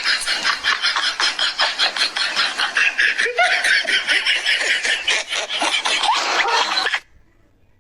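A parrot giving rapid, repeated cackling that sounds like laughter, at about five or six bursts a second with a few short squeaky rises. It cuts off suddenly about seven seconds in.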